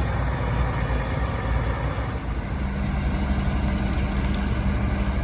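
Heavy diesel engine running steadily, with a steady low hum joining about two and a half seconds in.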